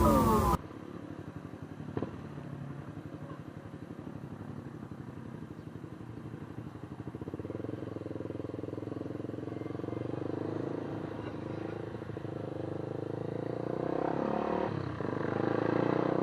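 A vehicle engine running steadily, its pitch and loudness rising about halfway through and again near the end.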